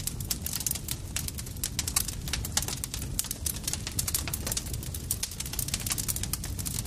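Campfire crackling steadily: a dense, irregular run of sharp pops and snaps over a low, steady rumble of the burning fire.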